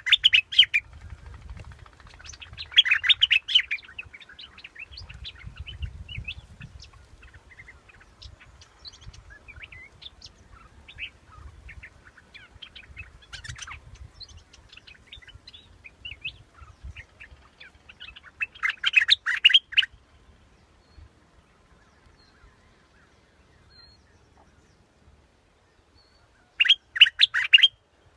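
Bulbul song: short, loud phrases of quick chirping notes, repeated several times with gaps, and scattered quieter chirps in between.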